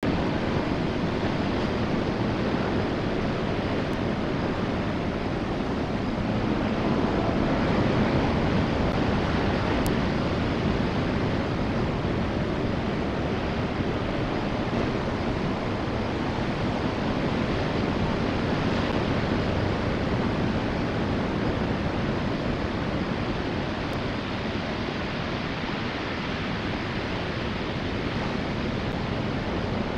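Steady rushing of wind and ocean surf on an outdoor microphone, with no train yet heard.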